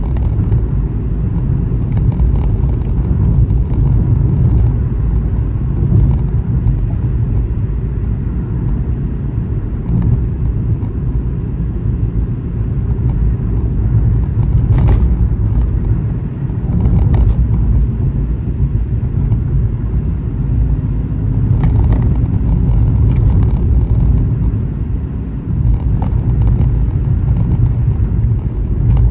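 A car driving at highway speed: a steady low road rumble of tyres and engine.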